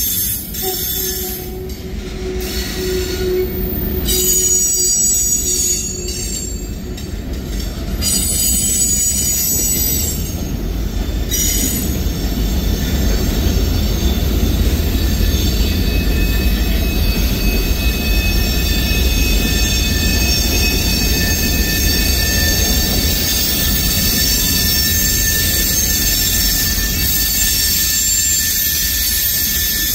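Freight cars of a CSX manifest train rolling slowly over the rails with a low rumble, their wheels squealing in several steady high-pitched tones. The squeal comes and goes in the first dozen seconds, then holds steady. The uploader takes it for brakes left applied and dragging on the wheels.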